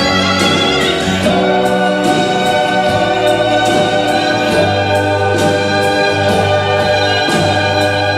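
Music: a choir singing slow, held chords over sustained bass notes, the chords changing every second or two.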